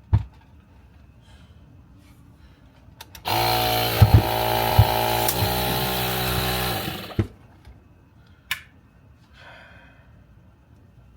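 Small air compressor running steadily for about four seconds, a motor drone with a hiss over it, starting a few seconds in and cutting off suddenly. A few light knocks before and after.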